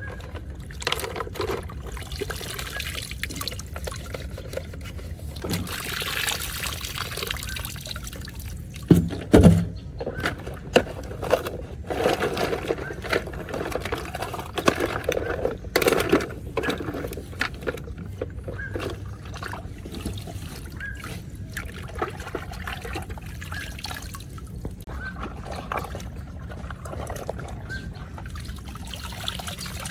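Water pouring and trickling, with scattered knocks and handling clatter; a couple of loud thumps come about nine seconds in.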